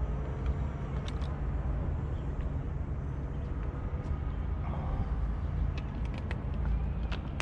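Steady low wind rumble buffeting an action camera's microphone, with a few light clicks near the end.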